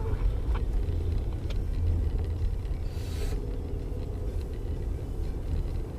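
Car driving on the road: a steady low rumble of engine and tyre noise, with a brief hiss about three seconds in.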